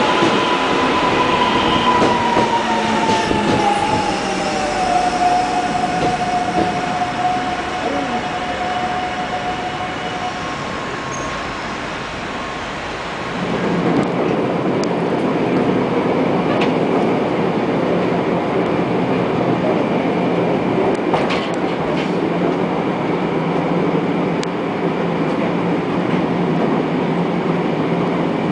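An electric commuter train runs past a platform, its motor whine gliding down in pitch and then holding steady over the rolling noise of the wheels. About 13 seconds in this gives way to the steady rumble of riding aboard a moving train.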